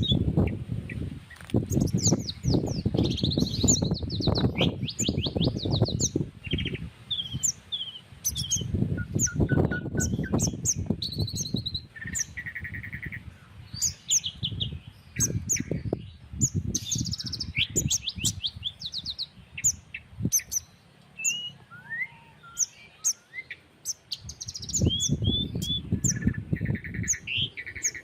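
Several small birds chirping and trilling back and forth, with short repeated notes, rapid trills and falling whistles. Irregular gusts of wind buffet the microphone with a low rumble that comes and goes.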